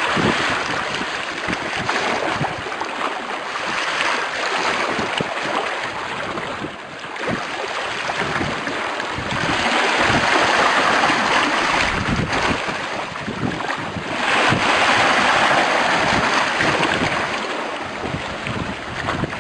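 Strong wind buffeting the microphone over sea waves splashing and breaking, a continuous rush with frequent gusty thumps. It surges louder twice, about ten and fifteen seconds in.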